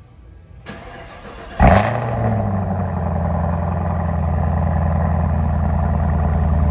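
2023 Camaro ZL1's supercharged 6.2-litre LT4 V8 cold-starting. It cranks briefly, catches with a loud flare about a second and a half in, then settles into a steady idle.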